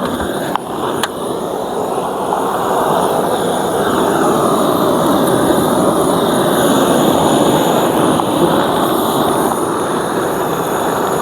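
Honeybees buzzing loudly in a dense, steady hum, the sound of a disturbed colony.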